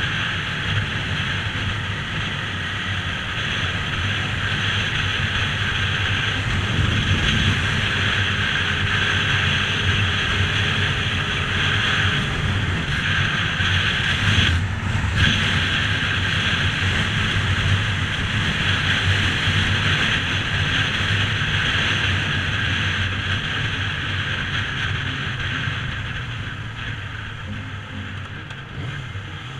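Motorcycle riding along, its engine running steadily under a rush of wind over the microphone. It eases off over the last few seconds.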